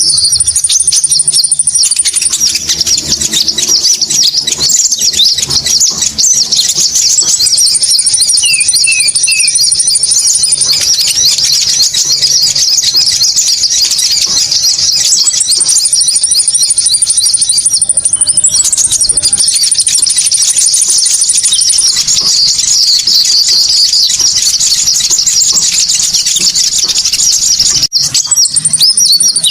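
Bird-lure recording of konin calls: dense, continuous high-pitched chattering and twittering, with a thin steady high whistle held for a few seconds at a time, several times over.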